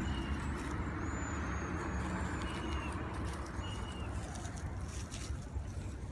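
A flock of small birds in a tree giving short, high chirps, about half a dozen scattered through the first four seconds, over a steady low rumble.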